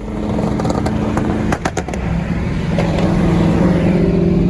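A car engine running loudly at steady revs, with a few sharp cracks about one and a half seconds in, after which the engine settles to a steady lower note.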